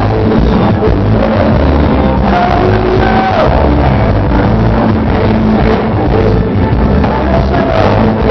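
Live worship band playing loud rock-style music with drums and guitar.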